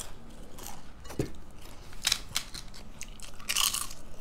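Close-miked mukbang eating: a person chewing, with a few short, crisp crunches and bites every second or so.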